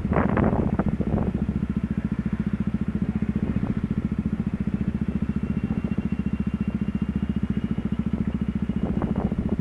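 Yamaha WR125R's 125 cc single-cylinder four-stroke engine idling steadily with an even pulse. Near the end, rushing wind noise starts to build again.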